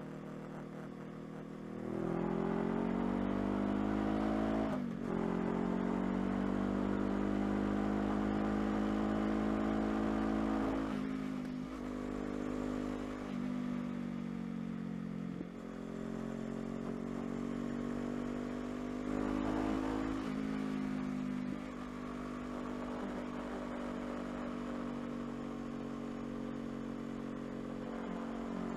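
Honda CBR500R's parallel-twin engine accelerating from about two seconds in, its note rising, breaking briefly at several upshifts, then running steadier near the end.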